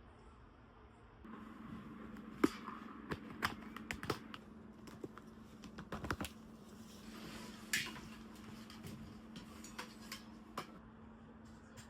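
Scattered light clicks and knocks over a steady low hum that starts about a second in, with a brief hiss near the middle.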